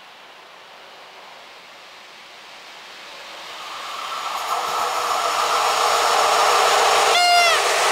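EP07 electric locomotive hauling an Intercity passenger train approaching on the rails, its running noise growing steadily louder from about halfway in. Near the end the locomotive's horn gives a short blast that falls in pitch: the RP1 'attention' warning signal.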